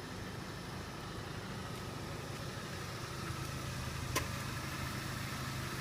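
Chevrolet Sonic's four-cylinder engine idling steadily after a remote start, with a single sharp click about four seconds in.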